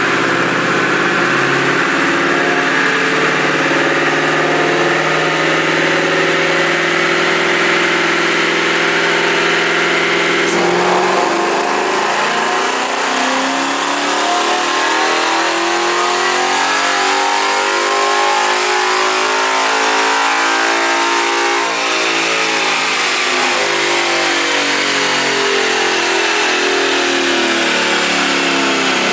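2011 Ford Mustang GT's 5.0-litre V8 running through a Magnaflow X-pipe and competition cat-back exhaust. It holds a steady speed, shifts abruptly about a third of the way in, then its pitch climbs smoothly to a peak and falls back again.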